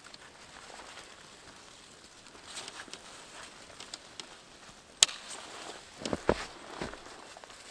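Scattered crunches and knocks of a person moving about in snow and handling gear, with a sharp click about five seconds in and a few heavier thuds just after six seconds.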